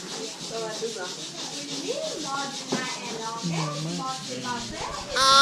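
A steady scratchy rubbing noise, with faint voices murmuring underneath.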